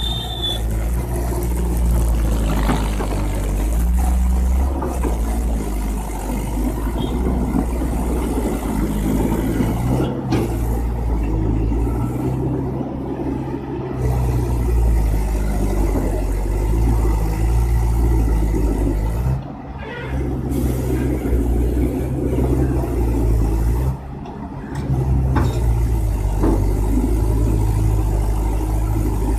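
Heavy vehicle engine running steadily with a deep rumble, broken by a few short, sudden drops in level.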